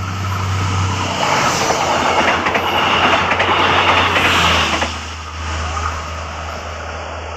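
Train passing close by: the rolling noise of its wheels on the rails swells about a second in, with faint clacks, and falls away just before five seconds. A steady low drone runs underneath.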